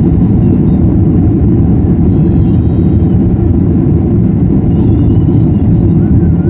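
Boeing 737-800's CFM56-7B turbofan engines running loud and steady, heard from inside the passenger cabin as a dense, even low rumble.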